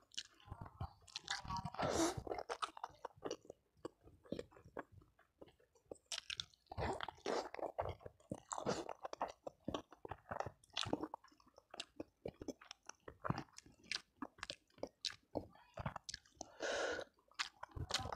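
Close-miked chewing of a person eating rice, balado eggplant and fried catfish by hand: irregular wet chewing with some crunching, pausing briefly a few seconds in.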